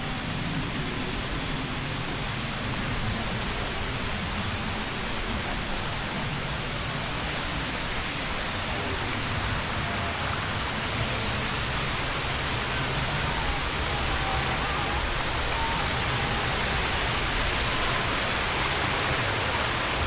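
Flowing water rushing steadily, growing brighter and a little louder about halfway through.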